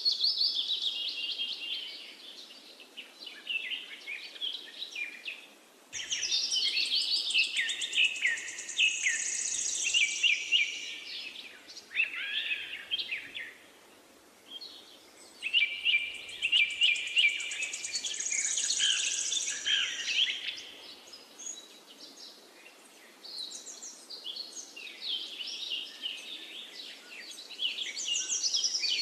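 Birds chirping and singing in bursts of several seconds, with short quieter gaps between.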